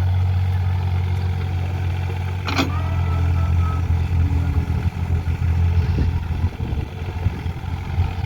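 Diesel engine of a JCB earth-moving machine running steadily with a deep, even drone. About two and a half seconds in there is one sharp metallic knock, and from about six seconds on the engine note grows uneven, as under changing load.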